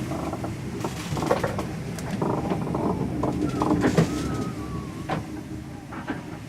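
Strong wind and sea noise at sea, a steady rumble with scattered knocks. A thin whistle falls slowly in pitch a little past the middle.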